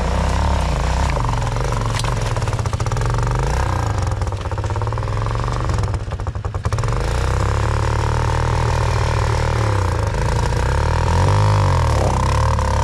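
Dirt bike engine running and revving up and down, with a short drop about six seconds in and quick throttle blips near the end.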